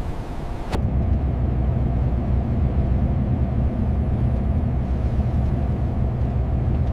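Truck engine running with a steady low rumble. About a second in, a hissy sound stops abruptly and the rumble carries on alone.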